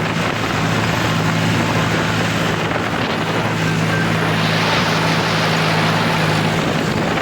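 Engine of a wheat-harvesting machine running steadily under a broad rush of machinery noise, which swells and brightens about four seconds in.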